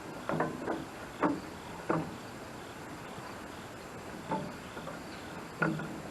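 A handful of short, separate knocks and clunks from parts being handled on a sawmill while its drive belt is hooked up, a couple of them in quick pairs.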